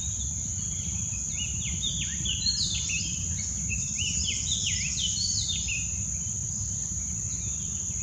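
A bird calling a rapid run of short, downward-slurred whistled notes for a few seconds, over the steady high-pitched drone of crickets or cicadas.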